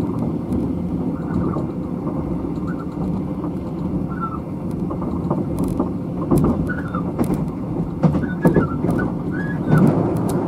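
Interior running noise of a Thai sleeper train carriage at speed: a steady low rumble of the wheels on the track. Scattered clicks and knocks come in from about halfway, along with a few short squeaks.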